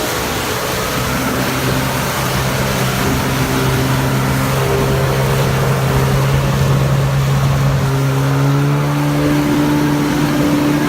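Jet ski engine running steadily under way, with wind and water noise; the engine pitch rises a little about eight seconds in.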